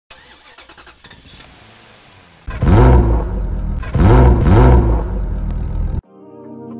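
A car engine running quietly, then revved hard three times from about two and a half seconds in. Each rev rises and falls in pitch. The sound cuts off suddenly about a second before the end, and music begins.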